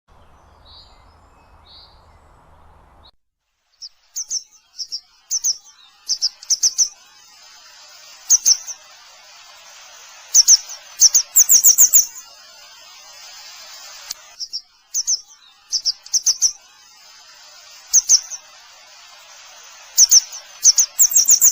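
Grey wagtail calling: sharp, high chirps, some single and some in quick runs of two to five, repeated every second or two over a steady hiss. For the first three seconds there is only a low hum with two faint chirps.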